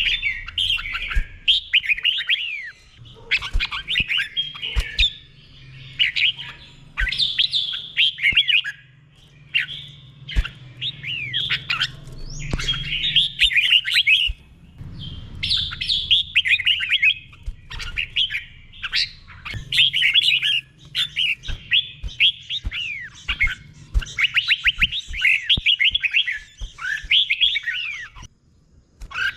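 Red-whiskered bulbul singing phrase after phrase of quick, sweeping whistled notes, with short pauses between the phrases.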